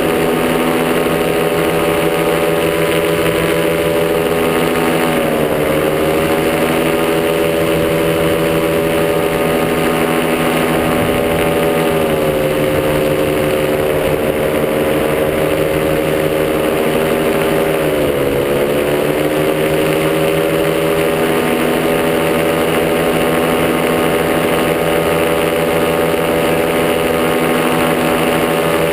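Top80 two-stroke paramotor engine and propeller running steadily in flight. Its note dips briefly about five seconds in, settles a little lower near the middle, and dips again before climbing back as the throttle is eased and reopened.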